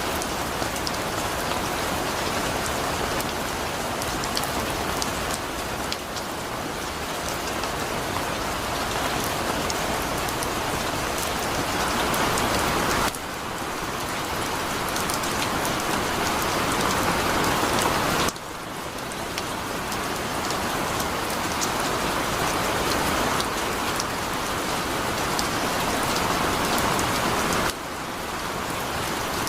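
Heavy rain falling steadily, a dense hiss of rain on surfaces with scattered sharper drops. Three times the sound suddenly drops a little in level and then slowly builds back up.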